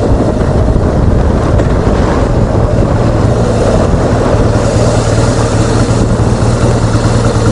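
BMW R1200GS boxer-twin engine running steadily while riding, with wind rushing past the microphone.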